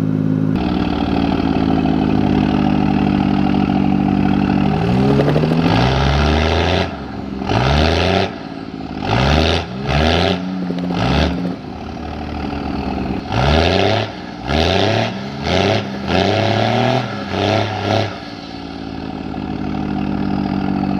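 Truck engine running steadily, then revved about ten times in short rising bursts while pulling a stuck mini truck out of the mud, before settling back to a steady run.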